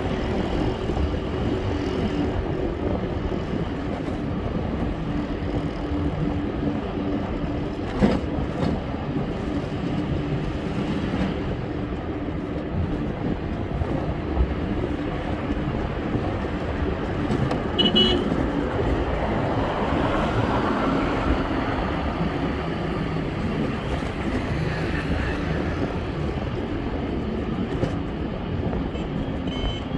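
Steady road and traffic noise heard while riding, a dense rush with the steady hum of engines. There is a brief horn beep about eighteen seconds in and a couple of sharp knocks along the way.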